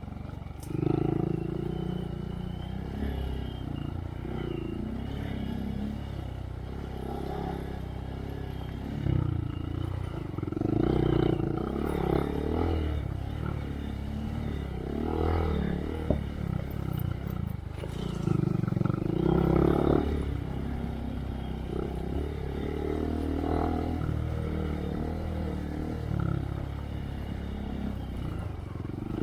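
2023 Honda Monkey's single-cylinder engine through a Yoshimura RS3 exhaust, revving up and down while riding, with several louder swells of throttle.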